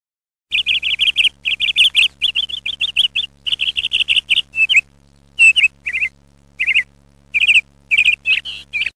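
Small birds chirping: quick runs of short, high chirps, then separate chirps with short gaps in the second half, over a faint steady low hum.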